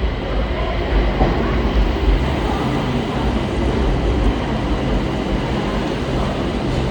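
Bangkok BTS Skytrain electric train running with a steady rumble as it pulls into a station.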